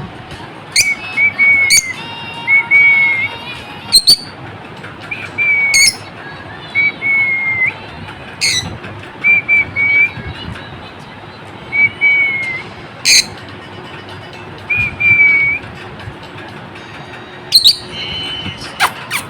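Lovebirds calling: a string of short, shrill whistled chirps, about one every second, with a few sharper, higher squeaks among them.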